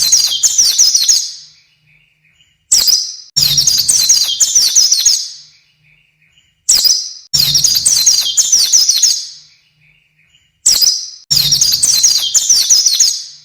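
White-eye (pleci) song: a short call followed by a rapid, high twittering phrase, repeated at even spacing about every four seconds, three times.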